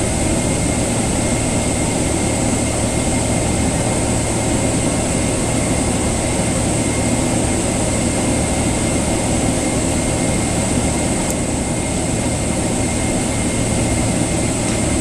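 Steady cabin rumble inside a Boeing 777-200LR taxiing after landing, its GE90 turbofans near idle, with a faint high whine over it and one small click about eleven seconds in.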